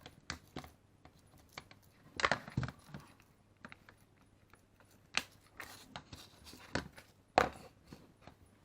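Hand wire stripper worked on a thin wire: sharp metallic clicks and clinks of its jaws and handles. There is a cluster of them about two seconds in, and single loud snaps near five and seven and a half seconds.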